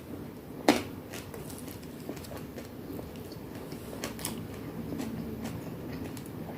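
Close-up eating sounds: chewing food, with scattered sharp clicks and crunches, the loudest one about a second in.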